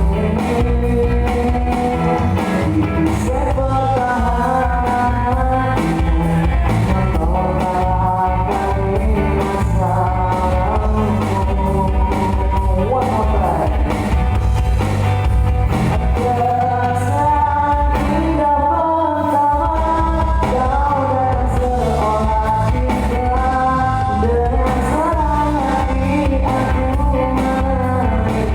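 A live band playing a song with a singer, guitar and drums, the vocal melody carried over a steady beat.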